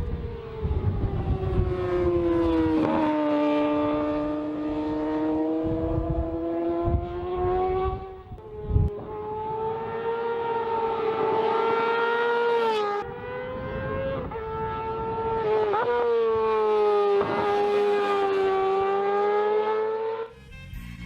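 Yamaha R6's inline-four engine held at high revs in long, steady high-pitched notes, the pitch dipping and shifting every few seconds, with a brief drop about eight seconds in and a sudden stop shortly before the end.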